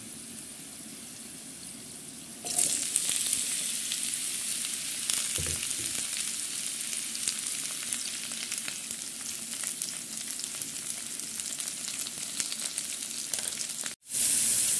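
Garlic, green chilli and cumin sizzling in hot oil in an iron kadhai; about two and a half seconds in, the sizzle turns much louder with crackling as chopped gourd fries and is stirred. Near the end it cuts out for a moment and comes back louder.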